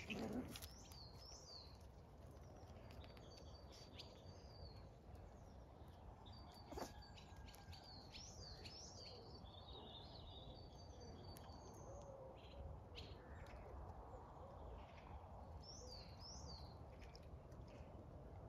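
Faint birdsong: short high chirps and quick falling notes scattered throughout over a quiet background hush, with a single sharp click about seven seconds in.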